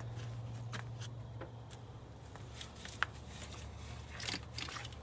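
Scattered small clicks and scrapes of tools and parts being handled in the engine bay during alternator and serpentine belt fitting, with one sharp click about three seconds in, over a steady low hum.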